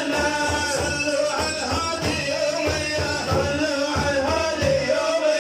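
A man's voice singing a religious praise song (madih), holding long wavering notes over repeated low drum beats.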